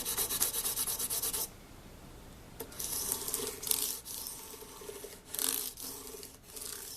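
600-grit wet-or-dry sandpaper on a school-eraser backing rubbed across a mandolin's metal frets, polishing out file marks after crowning. Quick, even back-and-forth strokes stop about a second and a half in, and slower, more uneven rubbing picks up again about a second later.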